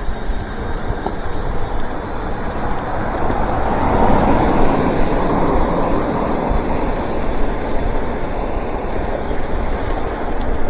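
Wind rush and tyre noise on an electric bike's camera microphone while riding on wet roads, swelling louder for a couple of seconds about four seconds in.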